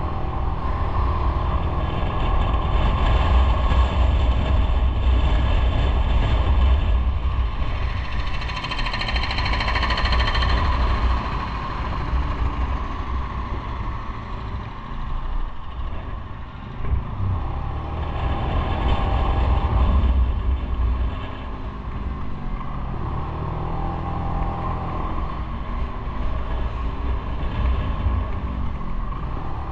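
Motorcycle running on the road while being ridden, with heavy rumble and road and wind rush; the level swells and eases several times as the throttle opens and closes.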